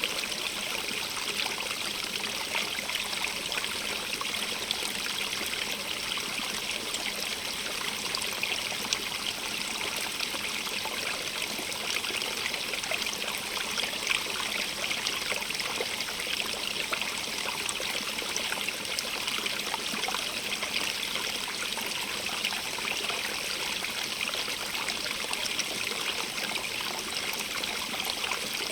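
Stream running over stones, a steady splashing and trickling rush with no pauses.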